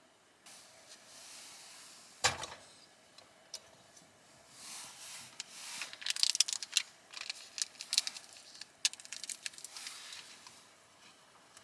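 Objects being handled: rustling with one sharp knock about two seconds in, then a quick run of clicks and light knocks.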